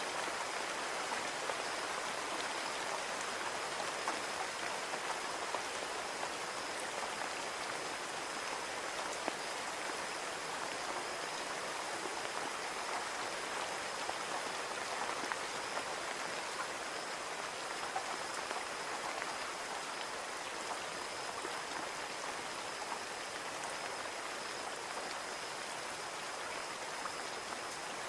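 Steady rain pattering on a window pane, an even hiss of water with many small scattered drop ticks. A faint, thin high tone runs steadily underneath.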